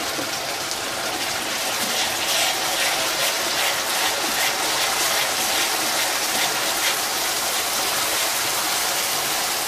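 Onion and garlic paste frying in hot oil in an aluminium kadai, with a steady sizzle. A wooden spatula scrapes the pan as it stirs.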